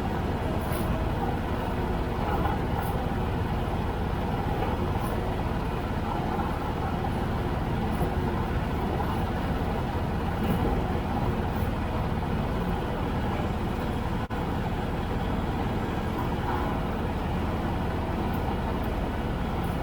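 Tractor engine running steadily under way, with a momentary dropout about two-thirds of the way through.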